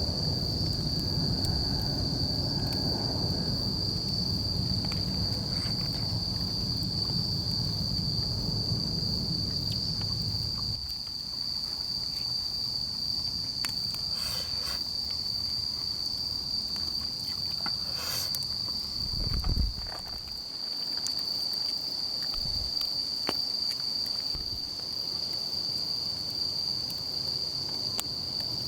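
Insects chirring in one steady, unbroken high-pitched trill. A low rumbling noise underneath stops about a third of the way in, and a few light clicks and a dull thump come later.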